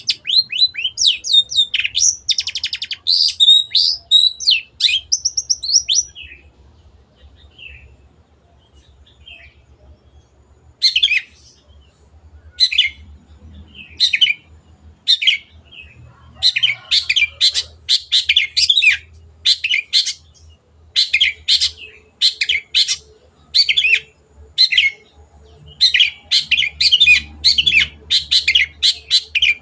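Long-tailed shrike (cendet) singing: a rapid, varied run of whistled glides and trills for about six seconds, then after a short pause a long series of short harsh scratchy notes repeated about one to two a second.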